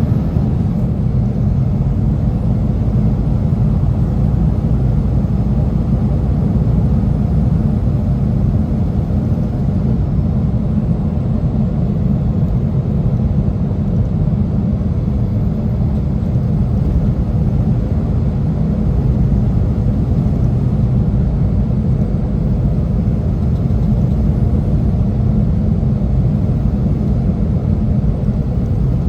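Heavy semi truck driving, a steady low rumble of engine and road noise with no change in pitch or level.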